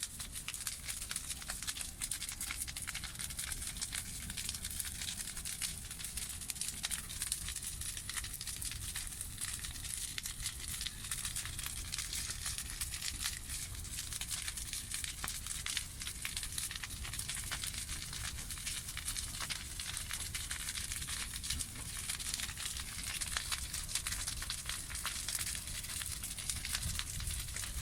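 Campfire crackling: a dense, irregular run of small sharp snaps over a low rumble.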